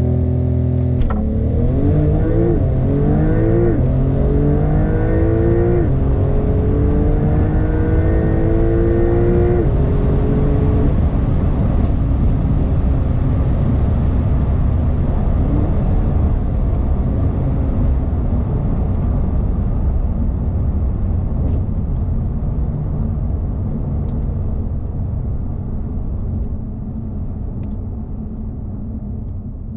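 2021 Porsche 911 Turbo S's 3.8-litre twin-turbo flat-six accelerating hard, its pitch climbing through about five quick upshifts of the dual-clutch gearbox, each marked by a sudden drop in pitch. After about ten seconds the engine note gives way to a steady rushing noise that slowly fades.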